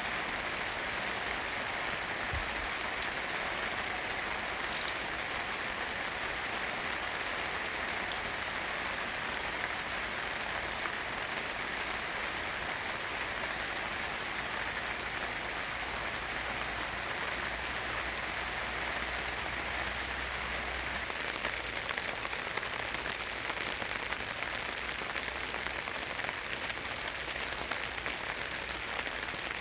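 Rain falling steadily on a camping tarp, with scattered single drops striking it.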